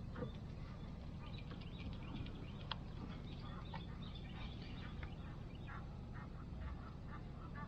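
Birds calling in a busy string of short calls, over a steady low background rumble.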